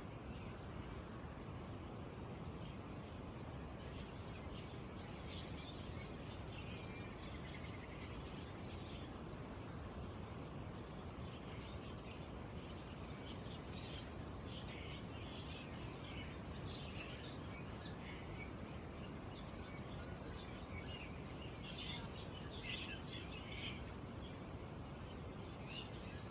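Many caged birds chirping and calling over one another in short, scattered chirps, busier in the second half. Under them runs a steady high-pitched buzz and a low background hum.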